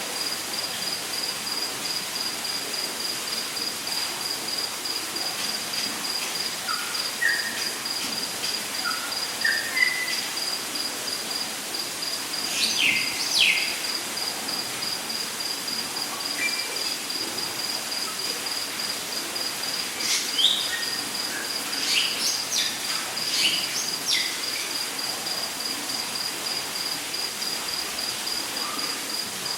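Rainforest ambience: an insect trilling on one steady, high, rapidly pulsing note over a constant hiss, with birds calling. A run of four short whistles steps upward in pitch about a quarter of the way in, louder downward-sweeping calls come near the middle, and a cluster of calls follows about two-thirds through.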